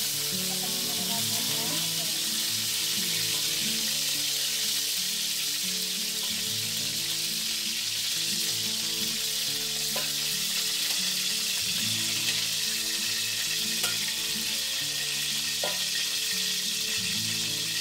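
Broccoli florets frying in hot oil in an aluminium wok, a steady sizzle, with a few light clicks in the second half as the pieces are lifted out.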